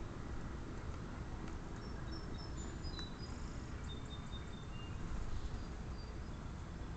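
Outdoor ambience: a steady low rumble with faint, short, high-pitched bird chirps scattered through the middle, and a single small click about three seconds in.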